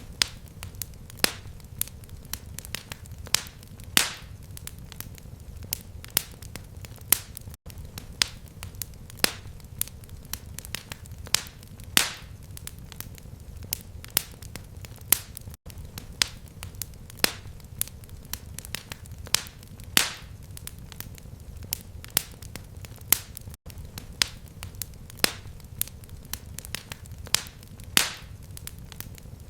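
Fireplace fire crackling: irregular sharp pops and snaps, a few of them louder, over a steady low rumble. Brief gaps in the sound come about every eight seconds.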